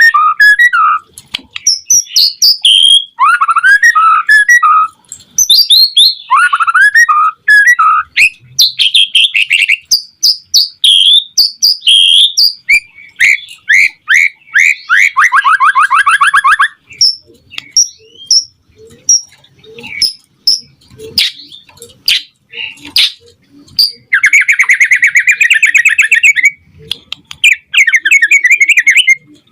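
White-rumped shama song: a fast, varied run of loud whistled phrases, rapid trills and buzzy rattles with short breaks, the song of a shama in full voice played to spur other shamas into singing.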